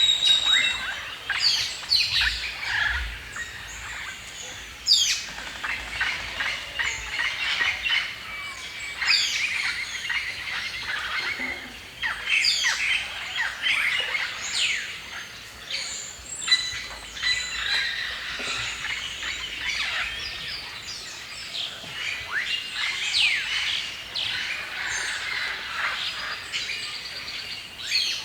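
A chorus of several songbirds chirping and singing at once, with quick downward-sweeping whistles and twitters overlapping throughout.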